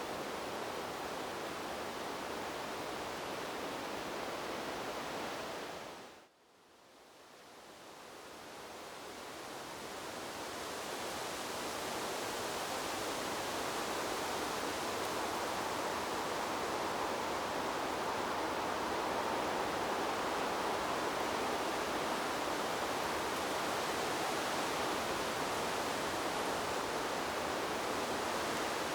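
Steady, even rushing noise of wind through trees, like pink noise. It drops out suddenly about six seconds in, then fades gradually back up over several seconds.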